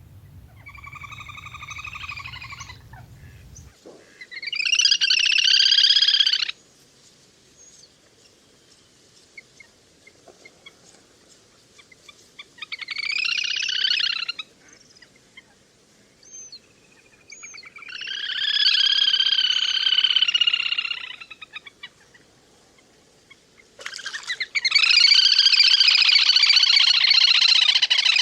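Little grebe giving its whinnying, trilling calls in five bouts of a few seconds each, separated by short pauses. The last bout is the loudest and longest.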